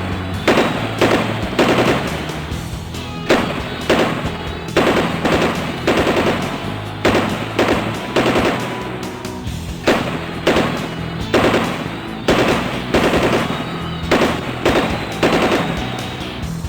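Repeated bursts of rapid gunfire over background music with a steady low bass line.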